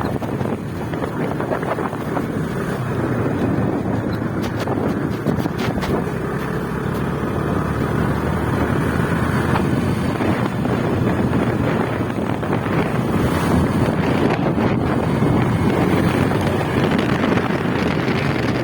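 Wind noise on the microphone of a moving motorcycle, with the bike's engine running beneath it.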